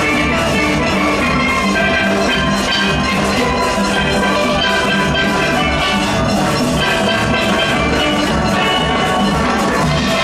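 Steel band playing: a full orchestra of steelpans carrying the melody and harmony in many ringing notes, over a steady soca-style beat of drums and percussion.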